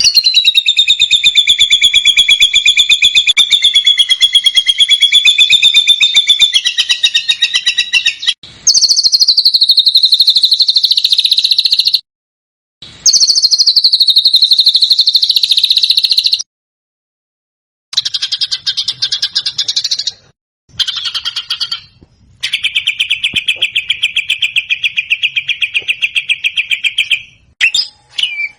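Songbird song made of long, very fast rapid-fire trills, the 'tembakan' and 'besetan' type used as masteran tutor song for caged songbirds. It comes in several runs of a few seconds each, cut apart by brief silences, the pitch wavering up and down within each run.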